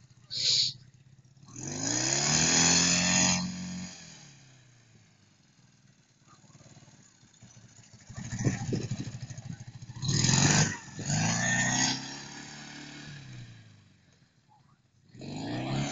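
Ural motorcycle's flat-twin engine revving hard in three bursts, its pitch rising and falling as the throttle is opened and shut, with quieter running in between. A brief sharp sound comes about half a second in.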